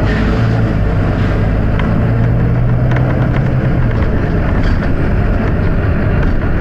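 Volvo B9TL double-decker bus's diesel engine running steadily with a low drone, heavier for a couple of seconds in the middle, with a few faint clicks.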